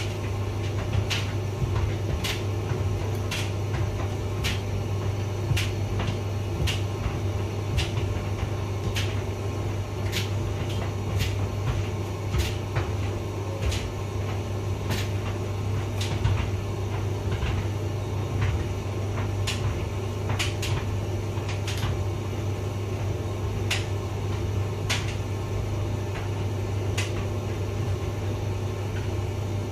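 Hotpoint vented tumble dryer running: a steady low motor hum and drum rumble, with irregular sharp clicks about once a second as the load tumbles.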